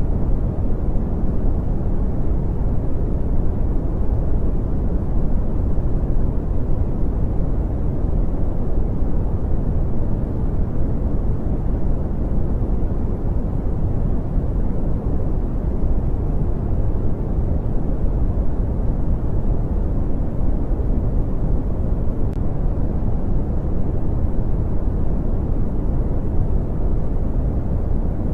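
Brown noise: a steady, deep hiss, strongest in the bass with little treble, unchanging in level.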